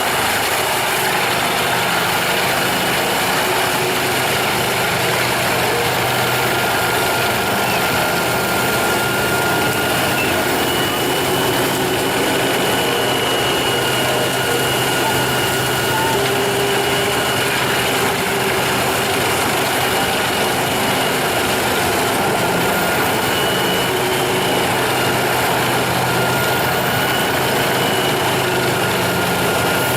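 A wood chipper's engine running steadily at a constant pitch, with a faint held whine over a dense mechanical noise.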